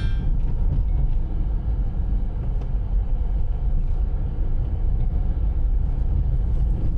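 Steady, loud low rumble with no breaks, like a vehicle in motion heard from inside.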